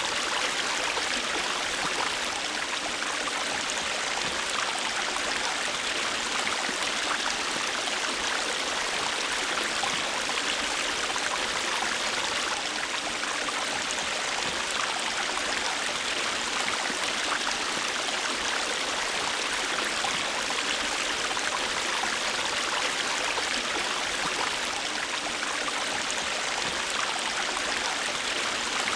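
A river's water flowing over rocks: a steady rushing and babbling with small splashes, unchanging throughout.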